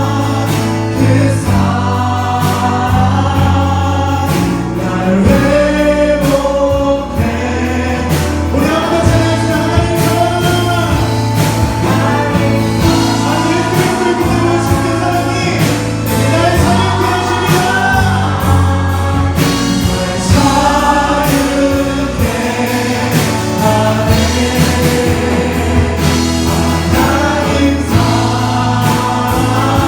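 Contemporary Christian worship music from a praise team: several voices singing a song together over steady bass notes and drums.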